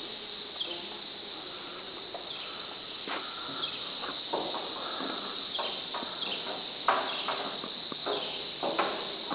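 Footsteps knocking on a steel canopy walkway, irregular and coming more often after about three seconds, over a steady drone of rainforest insects.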